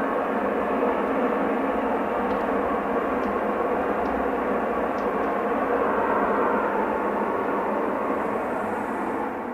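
Unexplained, very loud noise heard from the sky: a steady, awful rushing drone with no clear pitch that holds level throughout, with a few faint ticks on top.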